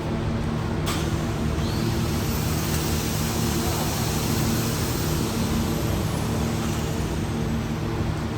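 A steady motor or engine hum, joined about a second in by a loud, continuous hiss like rushing air or spray.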